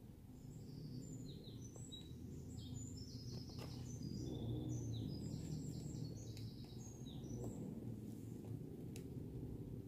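A songbird singing a quick run of short, high chirping notes that stops about two seconds before the end, over a steady low background rumble, with a few faint taps.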